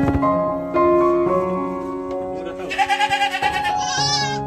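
Gentle piano background music with a sheep bleating over it: one quavering bleat about three seconds in, and another beginning near the end.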